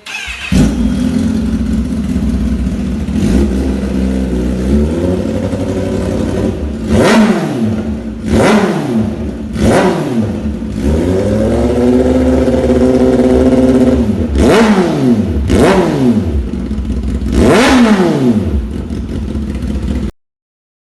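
Kawasaki ZX-10R sport bike's inline-four engine with an aftermarket exhaust, idling and revved in sharp throttle blips, about half a dozen quick rises and falls plus one longer held rev, cutting off suddenly near the end.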